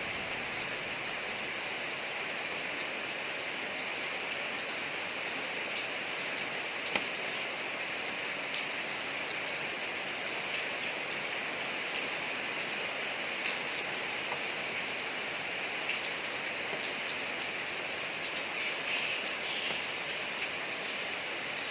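Steady rain falling on a street: an even hiss with scattered faint drop ticks and one sharper tick about seven seconds in.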